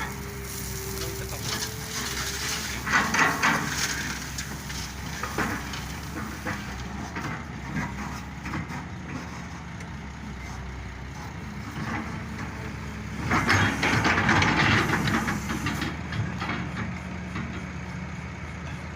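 Heavy diesel machinery engine, an excavator at work, running steadily, with two louder stretches of harsh noise: a short one about three seconds in and a longer one from about thirteen to sixteen seconds.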